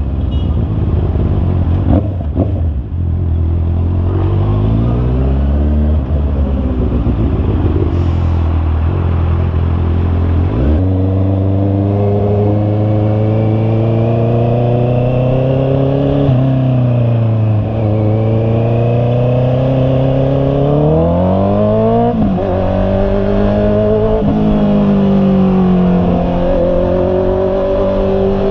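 Honda CB650R's inline-four engine running while riding, its pitch climbing under acceleration and falling back off the throttle, with several abrupt changes in pitch as gears shift.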